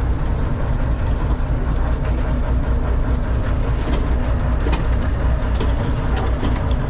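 Freightliner FLD semi truck's diesel engine running while driving, heard from inside the cab as a steady low rumble mixed with road noise. A few short sharp rattles or clicks come through around the middle.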